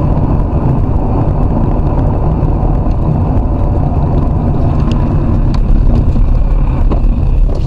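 Steady, loud low rumble of a moving vehicle picked up by a dashcam inside the cab: engine and tyre noise on the road.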